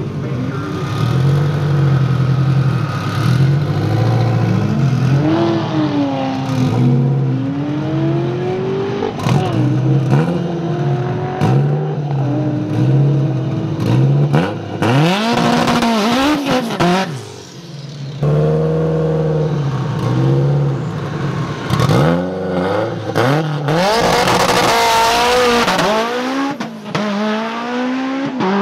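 Drag-racing car engines revving hard, their pitch climbing and falling again and again, with louder noisy stretches about halfway through and near the end.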